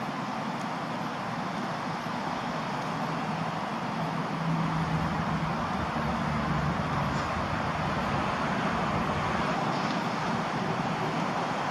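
Steady vehicle noise that swells a little about four and a half seconds in, with a low hum for a couple of seconds as it does.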